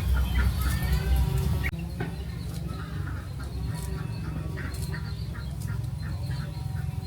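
Chickens clucking in short, repeated calls over a steady low rumble, with an abrupt cut to a new stretch of clucking a little under two seconds in.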